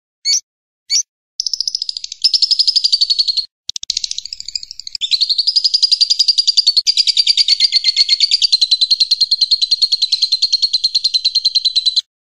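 Recorded songbird song of the kind used for masteran: two or three short high chirps, then a long, very rapid high-pitched trill that runs for about ten seconds with a brief break about three and a half seconds in, and stops abruptly near the end.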